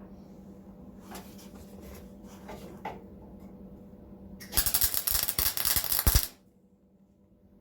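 MIG welder laying a short weld on a steel sill panel: a loud, dense crackle lasting about two seconds that starts about four and a half seconds in and cuts off suddenly. Before it, faint clicks of handling over a steady low hum.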